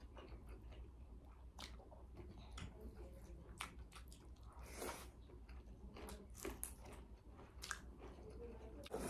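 Faint chewing and mouth smacks of people eating rice and chicken curry by hand, with irregular short clicks scattered through.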